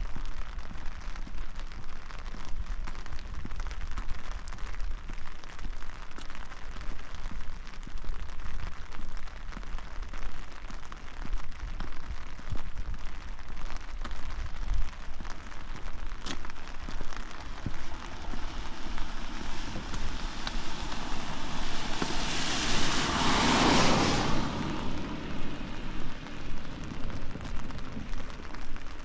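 Steady rain falling and pattering. About twenty seconds in, a vehicle passes on the wet road, its tyre hiss swelling and then fading quickly.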